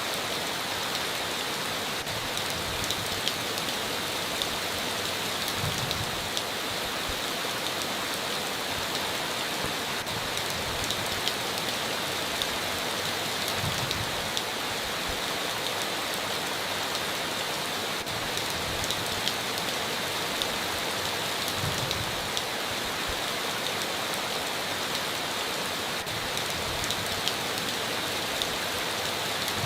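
Steady heavy rain drumming on a tin roof, with scattered louder drops ticking through the constant patter.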